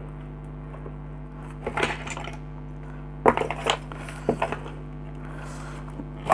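Nuts being undone on the casing of a compressor nebulizer: scattered small metallic clicks and clinks of the tool and loosened nuts, in a few short clusters, over a steady low hum.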